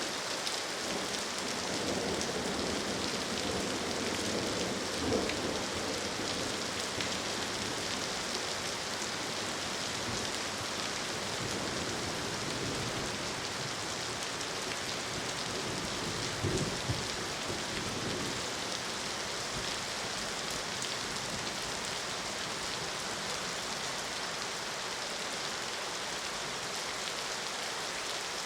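Steady rain falling, with a low rumble of thunder dying away over the first few seconds. Brief low thumps come about five seconds in and again a little past the middle.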